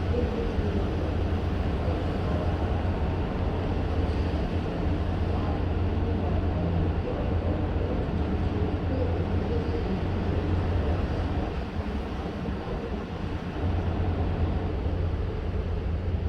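A ship under way at sea: a steady low droning rumble under a wash of noise, easing off for a couple of seconds about twelve seconds in.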